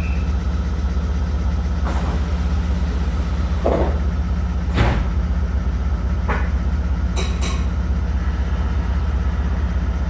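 Meitetsu 3500 series electric train running between stations, heard from inside the passenger car: a steady low rumble and hum, with a faint steady tone above it. Several short knocks from the wheels come about a second apart in the middle, and near the end there are two quick high crackles.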